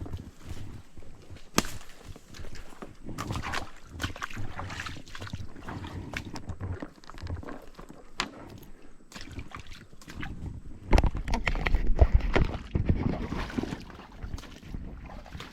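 Footsteps wading and sloshing through shallow water and ankle-deep muck, in uneven splashing steps. A louder low rumble sits over them from about eleven to thirteen seconds in.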